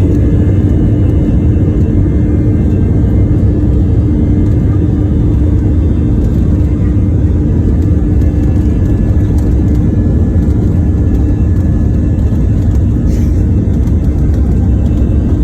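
Airplane taking off: a loud, steady low roar of the engines with a steady hum through it.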